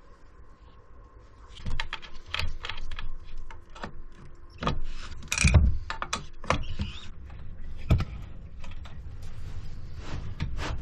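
Irregular taps, clicks and knocks of small objects being handled and set down, with a faint steady hum underneath.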